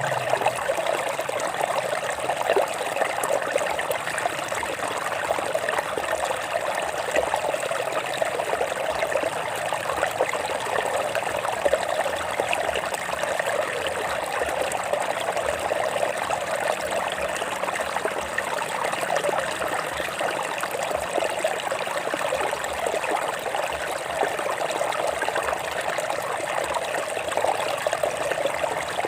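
Stream water running over rocks: a steady trickling and babbling flow.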